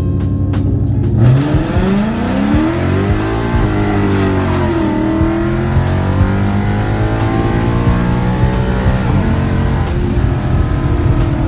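Car engine accelerating hard on a run, its pitch climbing steeply, dropping back, and climbing again. It starts suddenly about a second in, after a short stretch of music.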